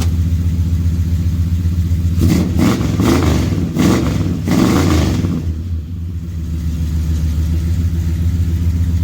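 A pickup's 400 big-block V8 running at idle, with a run of several throttle blips from about two to five seconds in before it settles back to a steady idle.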